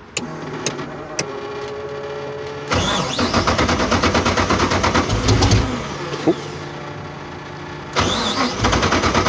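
1969 Corvette road race car's V8 being started: a steady whir with a few clicks, then the engine catches nearly three seconds in and runs loud. It is blipped up, settles lower, and is revved again near the end.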